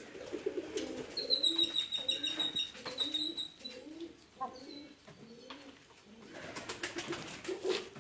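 Birds calling: low, wavering cooing throughout, with a high, thin whistled note held from about a second in.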